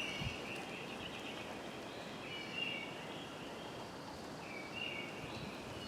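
Outdoor background ambience: a steady hiss of noise with high chirping calls from birds or insects repeating every second or two, each under a second long.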